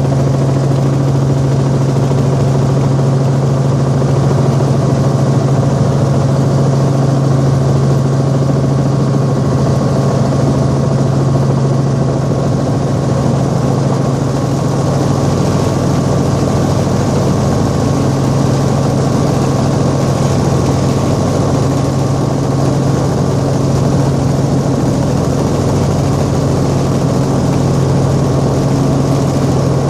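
Helicopter in flight heard from inside the cabin: engine and rotors running loud and steady, with a strong low hum.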